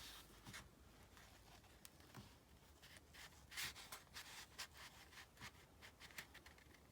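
Faint scraping and rustling of a paper card being pushed and worked into a tight paper pocket, in short irregular strokes.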